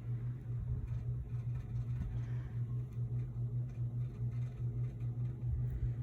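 Steady low hum of background noise.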